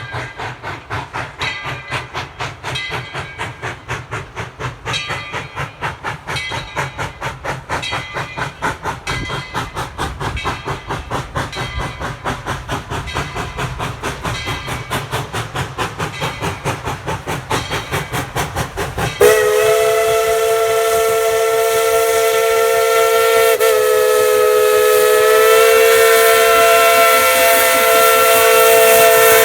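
Tweetsie Railroad #12, a narrow-gauge 4-6-0 steam locomotive, working with a steady run of rapid exhaust chuffs. About nineteen seconds in, its multi-note steam whistle comes in loud and is held as one long blast, with a slight shift in pitch a few seconds later.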